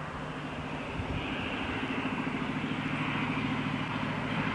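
A train approaching along the main line, a steady low hum with a hiss above it, both growing steadily louder as it nears.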